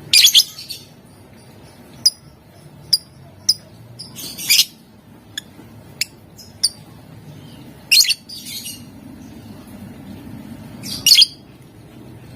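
Lovebird calling: a string of short, sharp, high chirps broken by four louder, harsher shrieks spaced a few seconds apart.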